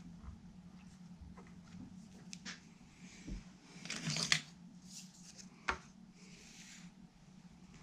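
Small tools and parts being handled at a workbench: scattered light clicks, a short scraping rustle about four seconds in and a sharp click a little later, over a steady low hum.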